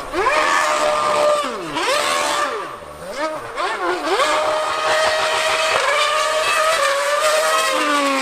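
Formula One car's high-revving racing engine, its pitch diving and climbing again and again as it is blipped and held at high revs. Near the end the pitch slides down.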